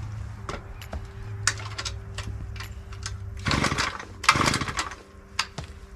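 Recoil starter cord of a two-stroke tiller engine being pulled twice in quick succession, a short rasping whir each pull, with scattered clicks and knocks of handling between.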